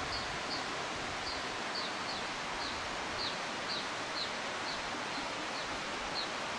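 A small bird calling a steady series of short, high, downward-slurred chirps, about two a second, over a steady rushing background noise.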